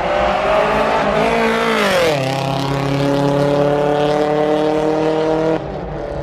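Loud car engine at full throttle during a street drag race, climbing in pitch, then dropping sharply about two seconds in and holding a steady high drone until it cuts off near the end.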